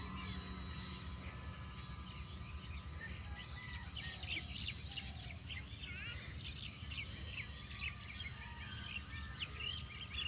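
Many small birds chirping and calling, the short chirps growing thicker in the second half, over a low steady rumble.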